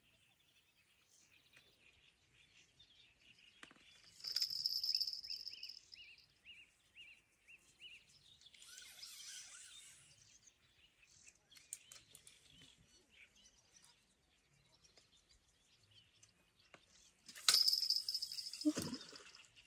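Birds calling in the reeds around a pond, including a run of quick repeated high chirps a few seconds in. A louder high-pitched hissing sound comes twice, about four seconds in and again near the end.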